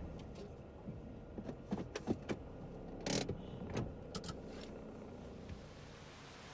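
A string of sharp clicks and knocks, with a short scraping burst about three seconds in, over a low rumble that fades away early on.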